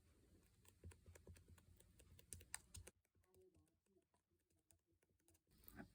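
Faint rapid clicking and tapping, dense for about the first three seconds, then sparser and quieter.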